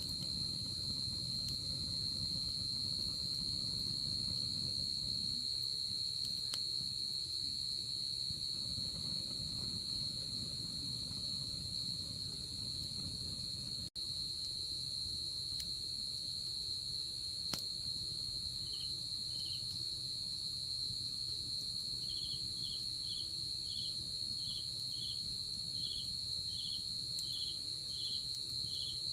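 Night insects calling: one insect holds a steady high trill, and about two-thirds of the way in a second insect joins with short chirps roughly twice a second. Beneath them, a campfire crackles faintly with a couple of small pops. The sound cuts out for an instant about halfway.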